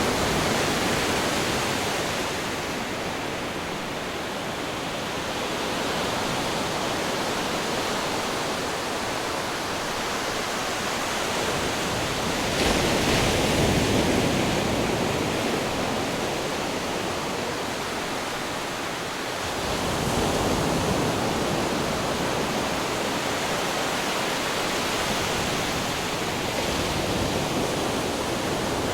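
Ocean waves crashing on rocks: a continuous wash of surf that swells with a louder break about twelve seconds in and another around twenty seconds.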